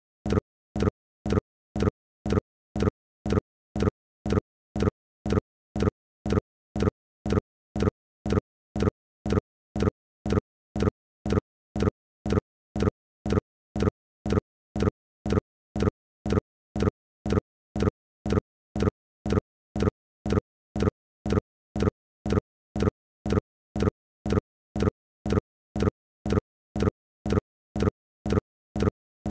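A short, low, pitched blip repeating evenly about twice a second, with silence between each one.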